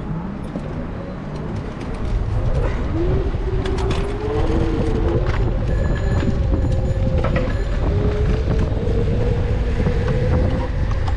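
Low rumbling wind and road noise on a bike-mounted GoPro's microphone while cycling, getting louder about two seconds in, with a wavering mid-pitched whine and scattered clicks over it.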